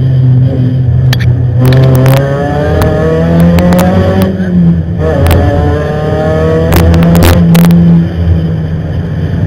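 Rally car engine heard from inside the cabin, accelerating hard: the revs climb, drop about halfway through, climb again and fall away near the end, with a few sharp cracks during each climb.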